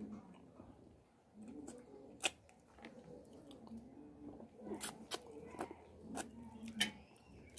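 Close-up mouth sounds of a man eating fried fish and rice by hand: chewing and wet lip-smacking, with a few sharp clicks, most of them in the second half.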